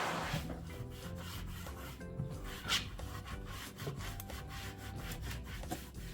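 Repeated scraping strokes on a hard surface, with two longer strokes at the start and about three seconds in, over soft background music.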